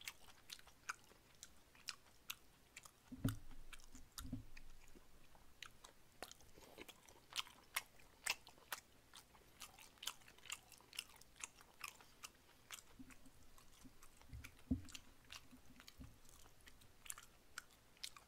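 Faint close-miked chewing of stir-fried gopchang tripe and glass noodles: irregular mouth clicks, a few a second, with a few soft low thumps.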